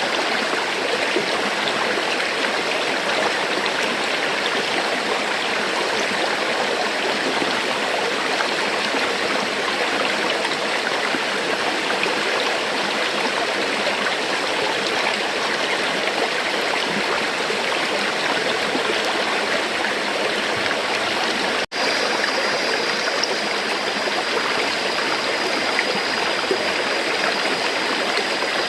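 River water flowing steadily in a continuous rushing wash, with a split-second dropout about three-quarters of the way through.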